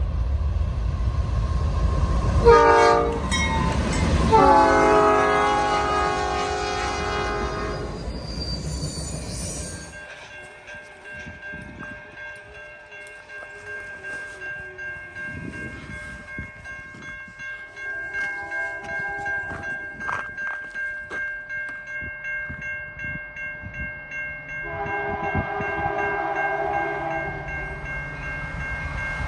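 A CN SD75I diesel locomotive's K3H air horn sounding over the heavy rumble of the passing lead locomotives. About ten seconds in the rumble drops away, and the freight cars roll past more quietly with rhythmic wheel clicks and steady high ringing tones.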